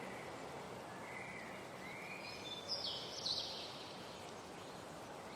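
Outdoor nature ambience: a steady soft hiss with scattered bird calls, a few short calls about a second in and higher, brighter ones about three seconds in.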